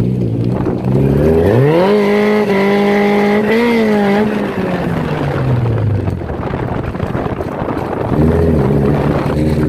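Engine-swapped EK Honda Civic's four-cylinder engine under acceleration, heard from inside the cabin: it revs up sharply about a second and a half in, holds high revs for about two seconds, then winds down slowly, and revs up again briefly near the end over steady road noise.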